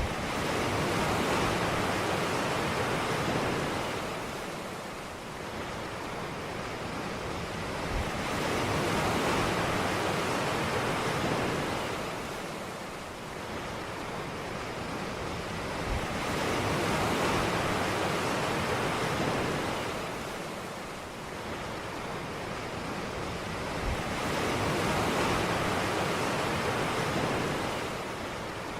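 Ocean waves washing onto a beach, a steady surf hiss that swells and fades in a slow rhythm, about one wave every eight seconds.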